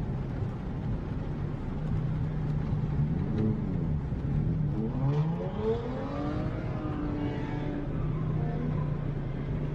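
Modified car's aftermarket exhaust droning steadily at idle. The engine is revved up and let fall a few times from about three to eight seconds in.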